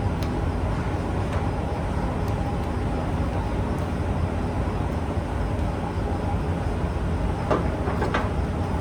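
A steady low mechanical drone, with two light knocks near the end.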